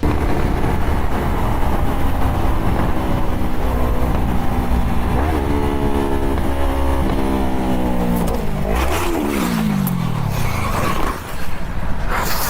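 Motorcycle riding at speed under heavy wind noise, its engine pitch climbing in steps as it accelerates, then falling away about nine seconds in. Sharp knocks follow, and a loud noisy burst comes near the end.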